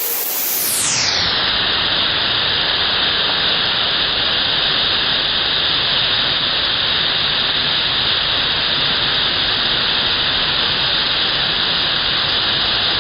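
Steady rush of falling water from a showery plunging waterfall close to the microphone: an even, unbroken hiss.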